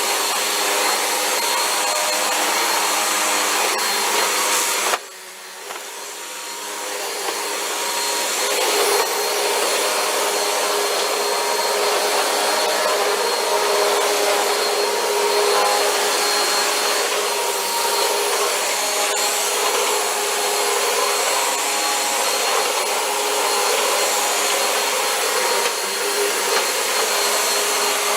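Vacuum cleaner running steadily while a floor is vacuumed. About five seconds in its sound drops suddenly, then builds back up to full over the next few seconds.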